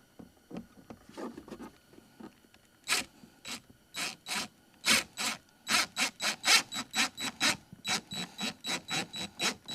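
Screws being driven by hand into the kayak's plastic hull: short rasping strokes with each turn of the screwdriver, starting a few seconds in and quickening to about three a second near the end.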